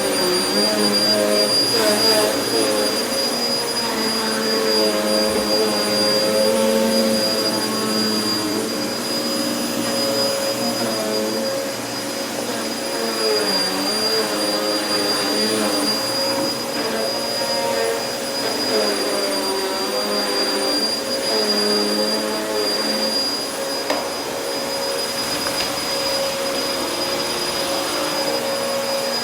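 Vacuum cleaner running continuously over carpet, with a steady high-pitched whine; its motor note dips and recovers now and then as the head works the pile.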